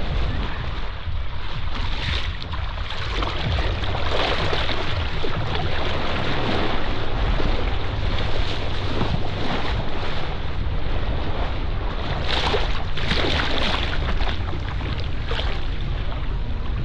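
Wind buffeting the microphone with a steady low rumble, over water splashing and rushing, with louder splashes about four seconds in and again near the three-quarter mark.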